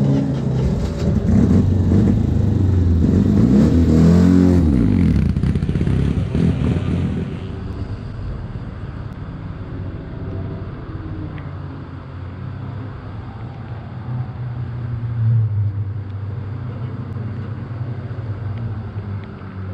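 Citroën 2CV race cars' air-cooled flat-twin engines. One revs loudly for the first several seconds, its pitch rising and falling. From about eight seconds in, the sound drops to quieter, steadier running, with a brief swell a little past the middle.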